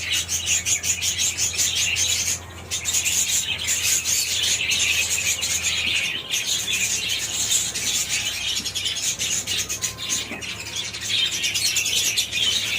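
Australian parrots chattering and chirping without pause in a rapid, dense warble, with only brief lulls.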